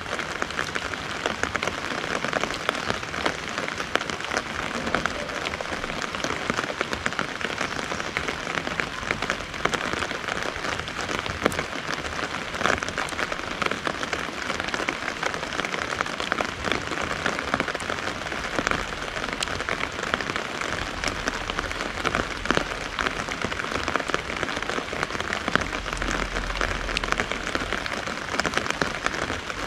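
Steady rain falling, drumming on an umbrella overhead and on the garden and wet ground: an even hiss made of countless small drop ticks.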